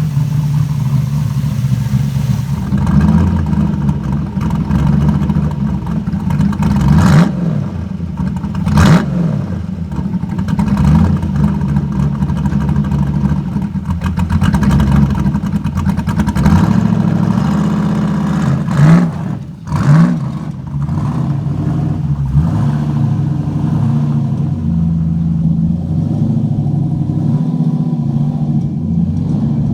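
LQ4 6.0-litre V8 with an aggressive Texas Speed camshaft idling with a choppy cam lope shortly after a cold start, blipped up in short revs several times before settling back.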